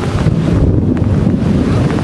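Wind buffeting the microphone: a loud, low, uneven rumble.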